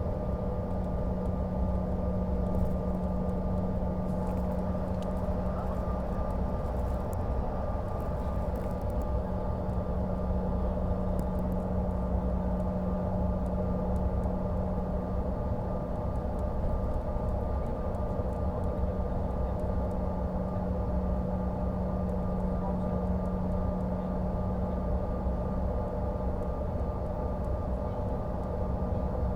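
Steady cabin drone of a CRJ-550 regional jet in flight: its rear-mounted GE CF34 turbofans and the airflow make a constant rumble. Over it runs a steady low hum and a fainter higher whine.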